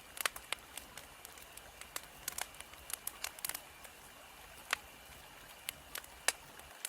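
Wood fire crackling: irregular sharp pops and snaps over a steady hiss. It cuts off suddenly near the end.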